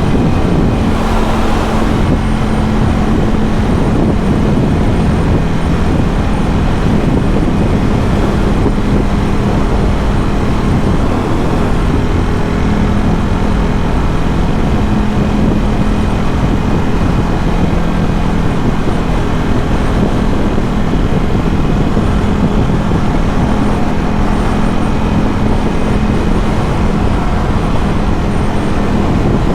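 Ducati Scrambler 1100's air-cooled L-twin engine, with a Termignoni exhaust, running steadily while the motorcycle cruises, over a constant rush of wind and road noise. A brief extra rush of noise comes about a second in.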